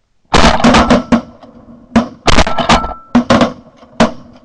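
Several shotguns firing a rapid volley at passing geese: about a dozen loud, overlapping blasts in quick clusters.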